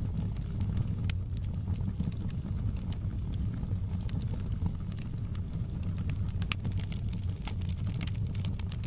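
Fireplace fire crackling over a steady low rumble of the flames, with sharp pops scattered through and coming more thickly near the end.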